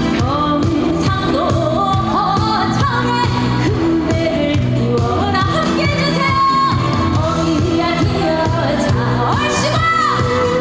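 A woman singing a trot song live with strong vibrato over loud amplified accompaniment with a steady beat.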